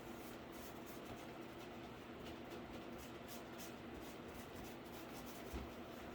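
Paint being spread in quick strokes across a cardboard PC case: a string of short, irregular scratchy swishes over a steady low hum.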